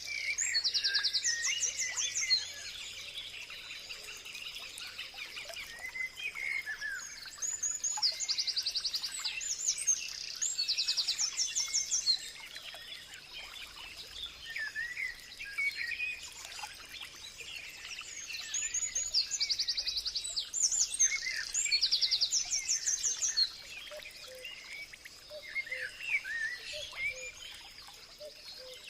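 Several birds singing and chirping. One loud song phrase of rapid repeated high notes comes back three times, about every ten seconds, with softer, lower chirps in between and a faint steady high tone underneath.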